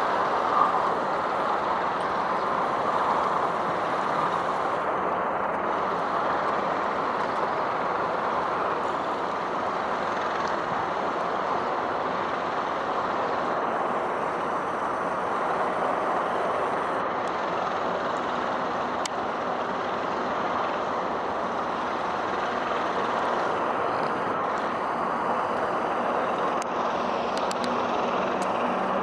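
Steady, unbroken hum of road traffic, cars and trucks with tyre noise and no single vehicle standing out.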